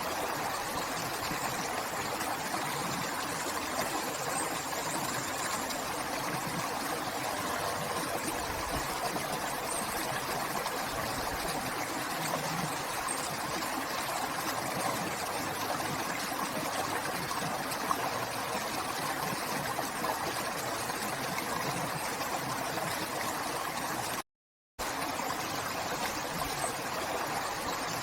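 River water flowing: a steady rushing and burbling. It cuts out completely for about half a second near the end, then resumes.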